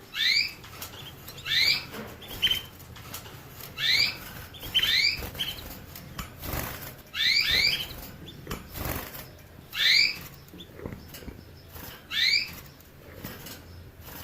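A small finch repeats a short rising call, two quick upswept notes, about every two seconds, with scattered light clicks and flutters between the calls.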